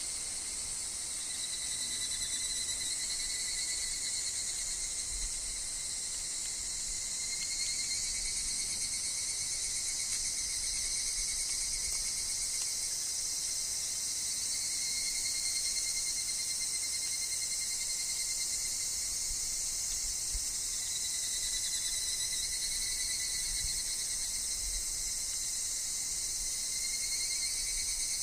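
Higurashi (evening cicadas) calling in a steady, high-pitched chorus, with overlapping calls swelling and fading every few seconds.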